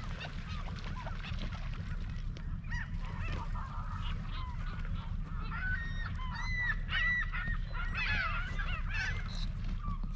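A flock of birds calling: many short, overlapping honking calls that start a couple of seconds in and grow busier in the second half, over a steady low rumble.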